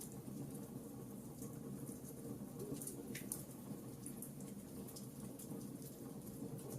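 Wood logs burning in a fireplace, crackling: scattered sharp little pops and snaps, several a second, over a low steady rumble of the fire.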